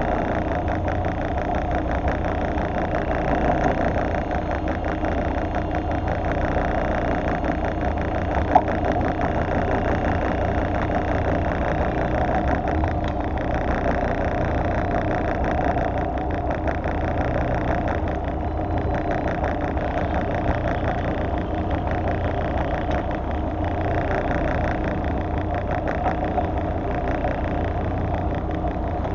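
Fishing boat's engine running steadily with a constant low hum, and a single sharp click about a third of the way through.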